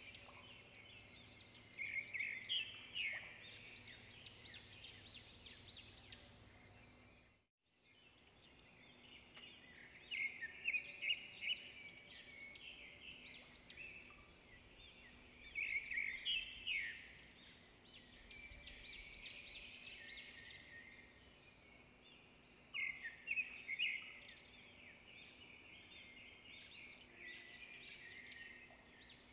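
Small birds chirping and twittering in quick runs of high chirps, broken by a moment of silence about seven and a half seconds in.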